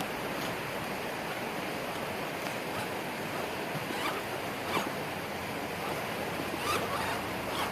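Swiftly running creek water rushing steadily, with a few faint clicks and knocks about four seconds in and again near the end.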